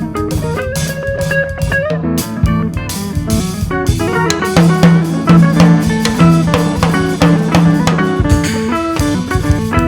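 Improvised instrumental music: a 12-string guitar played over a drum kit, with pitched notes over steady drum hits and a low note held from about the middle of the passage.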